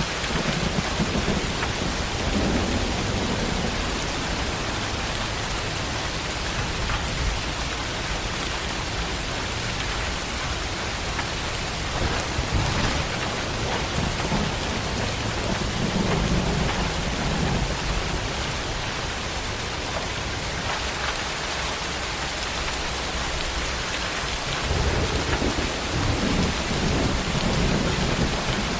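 Steady heavy tropical rain falling, with low rolling rumbles of thunder that swell a few times, strongest near the end.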